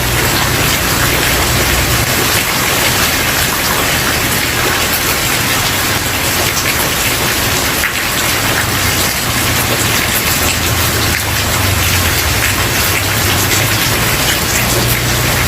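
Steady rain falling on a wooden porch, a dense even patter of drops. A low rumble underneath fades out about two seconds in and comes back in the second half.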